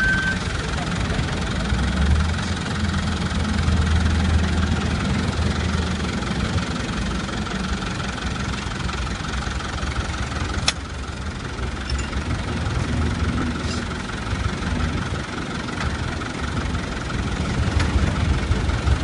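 Engine-driven mobile log debarking machine running steadily, with a stronger low hum for a few seconds near the start and a single sharp click about halfway through.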